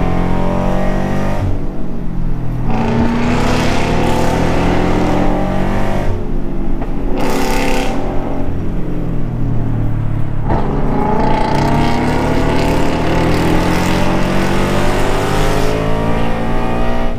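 Porsche sports car engine being driven hard, its pitch climbing as it revs up through the gears, with short breaks at the gear changes about three times.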